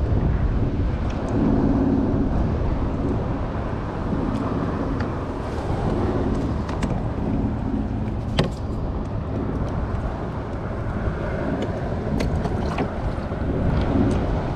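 Strong wind buffeting the camera microphone in a loud, uneven rumble that swells every second or two, with a single sharp knock about eight seconds in.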